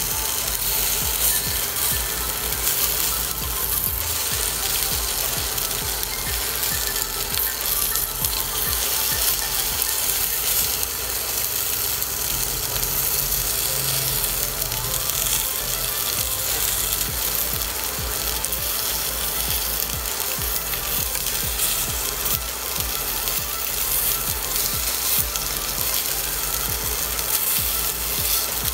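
Cubes of luncheon meat sizzling in hot oil in a cast-iron skillet as they brown, a steady dense crackle.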